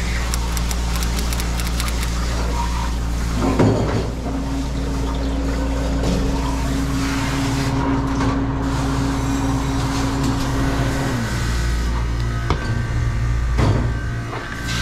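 Commercial Ice-O-Matic ice machine running during its start-up check after repair: a steady low hum from its refrigeration system and fans, with a couple of knocks. A second, higher hum comes in about four seconds in, then winds down and stops about seven seconds later.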